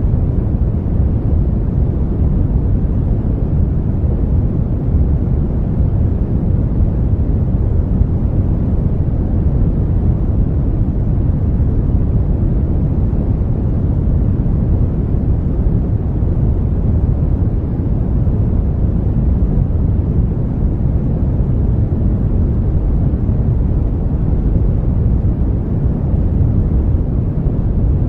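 Brown noise: a steady, even rumbling hiss with most of its energy in the low end and little treble, unchanging throughout.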